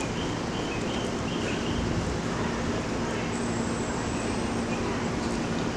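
Railway station platform ambience: a steady rumble and noise with a low steady hum that comes in about two seconds in, and a thin high whine for about a second in the middle.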